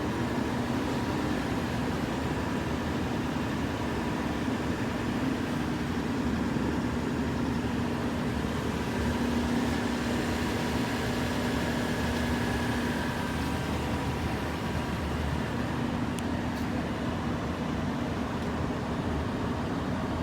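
Steady mechanical hum with a low drone and a faint higher whine, unchanging throughout; two faint clicks about three quarters of the way through.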